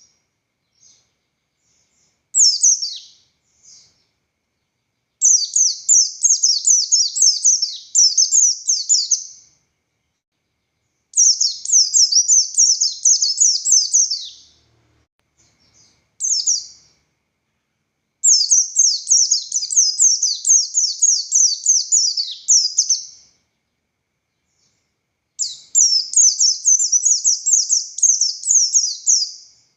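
A white-eye (pleci buxtoni) singing vigorously in high-pitched phrases of rapid-fire notes, six bursts of song separated by short pauses.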